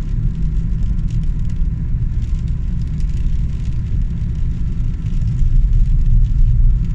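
Steady low rumble of a vehicle on the move, road and engine noise with no separate events, as heard from inside a car.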